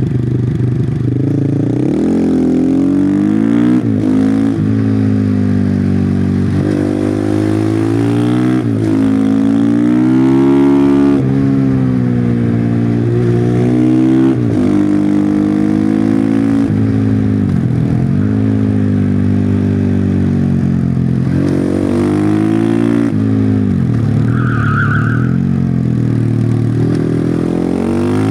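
Husqvarna FE501's single-cylinder four-stroke engine through its stock exhaust, revving up and dropping back again and again as the bike accelerates and brakes through a run of bends.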